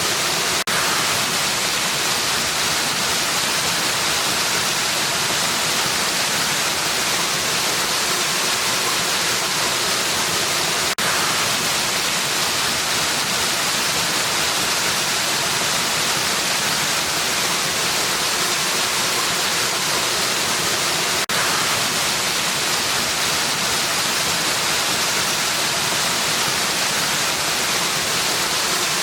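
Waterfall: a steady hiss of falling water, heavy in the highs and light in the lows. There is a brief dip in level about every ten seconds.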